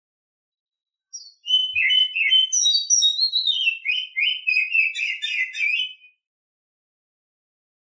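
Female Oriental magpie-robin (kacer) singing one rapid, varied phrase of clear whistles and chirps, about five seconds long and starting about a second in: mating song.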